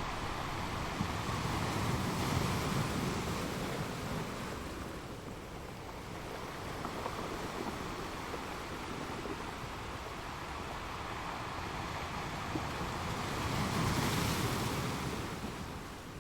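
Ocean surf: waves breaking and washing in, with a steady rush between them. Two waves swell up, one a couple of seconds in and a louder one near the end.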